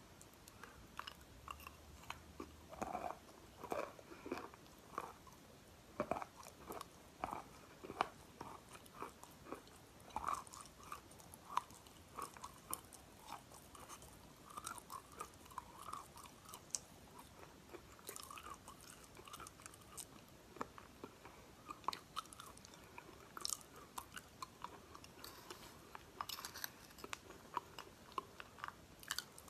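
Someone chewing crumbled chalk: a long run of short, irregular crisp crunches.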